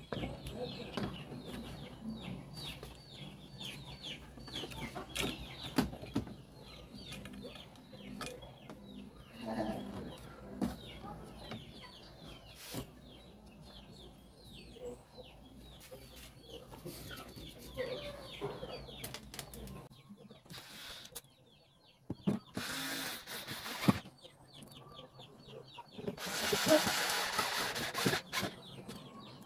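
Birds chirping over and over in the background in short falling calls, with scattered small clicks and knocks. Two short bursts of hissing noise come in the last several seconds.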